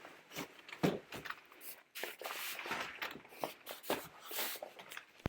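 Irregular knocks, scuffs and rustles of someone moving about and handling a large backdrop, with footsteps.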